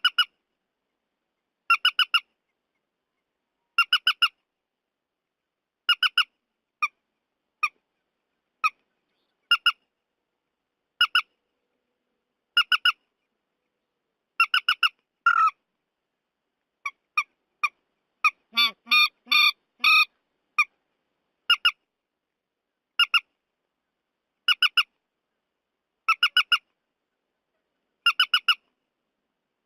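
Playback recording of trích ré bird calls used as a night-netting lure: short, sharp, squawking notes in clusters of two or three, repeating about every one and a half to two seconds, with a denser, harsher run of calls a little past the middle. The gaps between clusters are dead silent, as in an edited loop.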